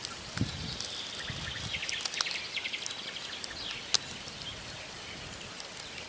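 Wood campfire burning, the logs crackling with scattered sharp pops, the loudest about two seconds in and again near four seconds. Small birds chirp and trill in quick runs through the middle.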